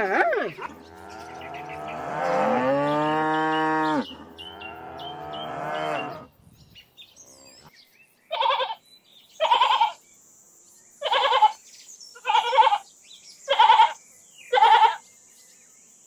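A cow moos in one long call that dips in pitch partway, then gives a shorter moo that fades away. After a pause, a sheep bleats six times, about once a second.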